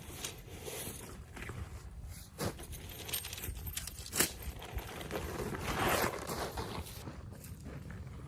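Storm wind and rain as a steady low rumble, with a few sharp knocks and a rustling swell of camp gear being handled.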